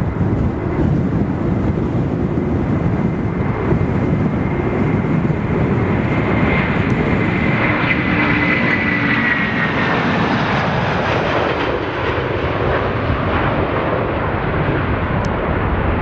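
Jet airliner's engines at takeoff power, a loud steady noise with a high whine that swells and falls slightly in pitch midway as the aircraft passes.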